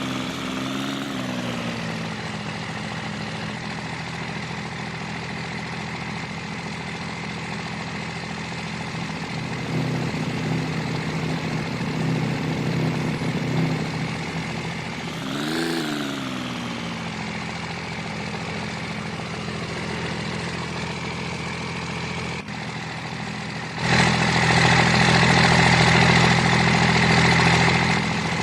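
An engine running steadily. Its pitch rises and falls briefly twice, about a second in and about halfway through, and a louder rushing noise comes in near the end.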